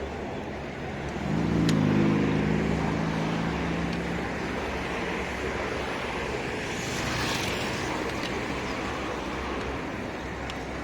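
Diesel freight locomotive running with a steady rumble. About a second in, a pitched engine tone rises in and holds for about three seconds, then fades back into the rumble.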